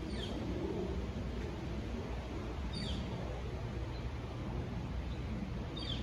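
A bird calling: three short, falling chirps about three seconds apart, over a steady low background rumble.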